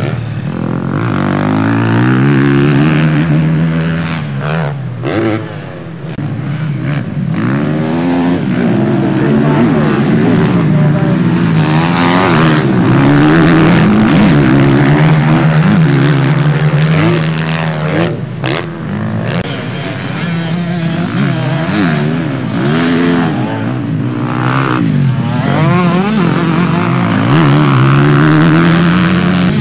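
Several motocross bikes racing past together, their engines revving up and down through the gears, with overlapping rising and falling engine notes.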